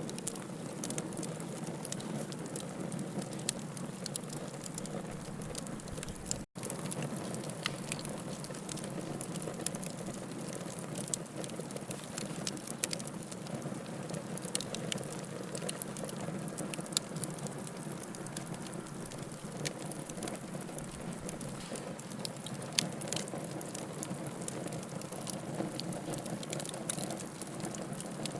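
Wood fire burning in a fireplace, crackling and popping: a soft steady rush with many irregular sharp crackles. The sound cuts out for an instant about six seconds in.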